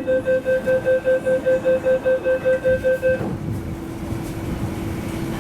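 MTR West Rail train's door-closing warning: rapid beeping, about four to five beeps a second, that stops about three seconds in as the doors shut. A steady train hum with a constant low tone runs underneath.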